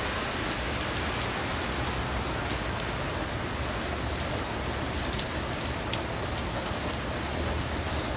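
Heavy rain falling steadily on pavement: a constant hiss with scattered sharp drop ticks.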